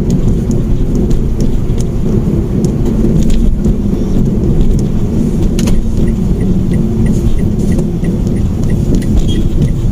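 Mitsubishi Mirage hatchback running along the road: steady engine and road rumble. From about six seconds in there is a faint regular ticking, about three ticks a second.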